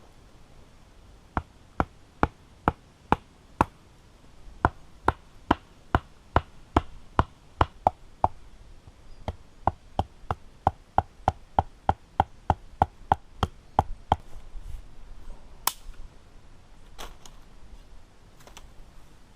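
Wood being chopped with a blade: sharp, even blows about two a second, in three runs with short pauses between them. A single louder, sharper crack follows near the end, then two fainter knocks.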